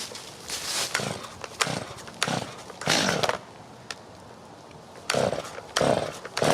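Chainsaw being pull-started: several short pulls on the starter cord, with the engine catching and running at the very end.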